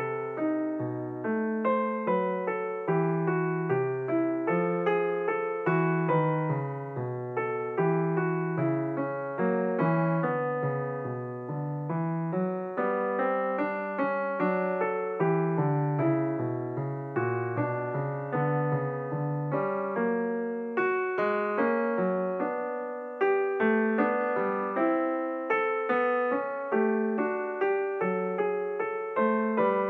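Background piano music: a continuous run of notes, each struck and fading away.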